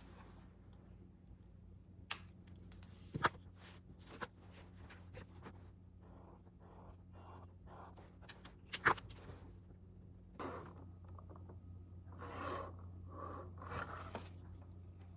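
Small handling noises: a few sharp clicks and knocks, then several seconds of short rustling or scraping, over a steady low hum.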